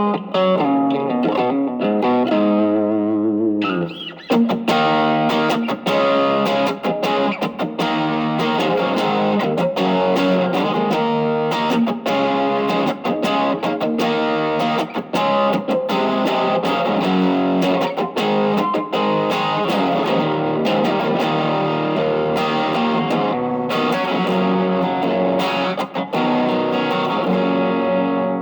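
Electric guitar played through an Ibanez TS808 Tube Screamer overdrive pedal fitted with a JRC 4558D op-amp chip, set for boost: overdriven picked notes and chords, with wavering bent notes in the first few seconds.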